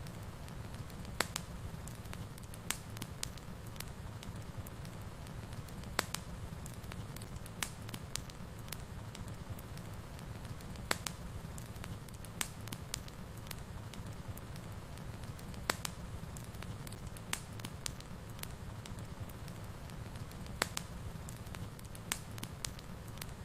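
Wood fire burning in a fireplace: a steady low rumble of flames with scattered sharp crackles and pops, several a second, a few louder snaps standing out.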